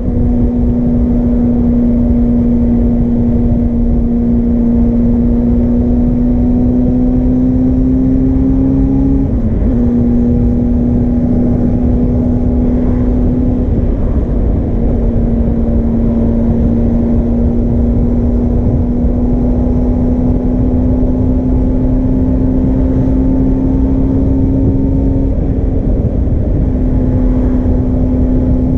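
Suzuki GSR400's inline-four engine running through a Yoshimura Cyclone Tri-Oval exhaust at high, fairly steady revs. The pitch creeps slowly upward and dips briefly three times.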